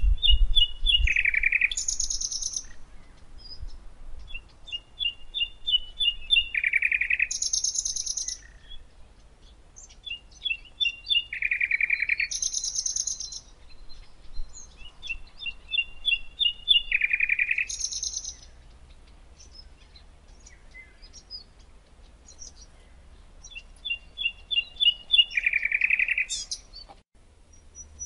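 A songbird singing the same short song about five times, with pauses between. Each song is a quick run of repeated notes, then a lower buzzy phrase, then a high buzzy flourish.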